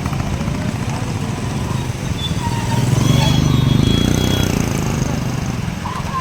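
A motor vehicle's engine running close by, growing louder in the middle as it passes and then easing off, with faint voices in the background.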